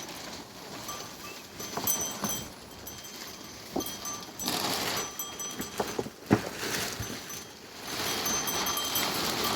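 Livestock sounds with short, repeated high ringing tones and a few sharp knocks, the loudest a little past six seconds in, with patches of hiss between them.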